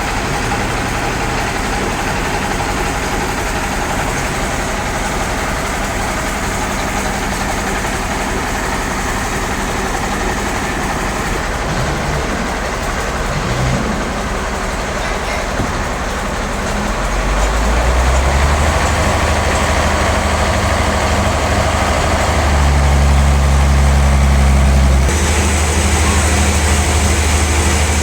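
Heavy sawmill machinery running steadily, with a low engine note that grows stronger from about two-thirds of the way through and shifts abruptly near the end.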